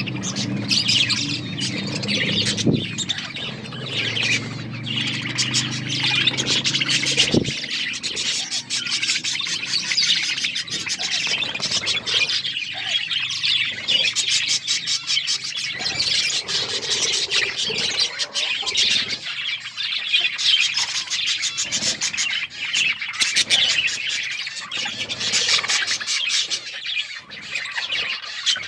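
A flock of budgerigars chirping and chattering continuously. A low steady hum sits underneath for the first several seconds.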